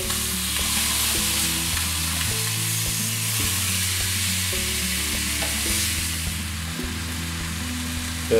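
Chicken breasts sizzling as they fry in a hot grill pan while being turned over with metal tongs, the sizzle easing a little near the end.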